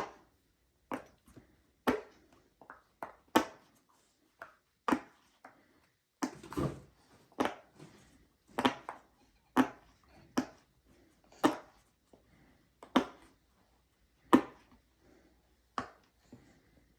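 Silicone Pop-It fidget toy bubbles being pushed through one at a time, an irregular series of sharp pops about one or two a second.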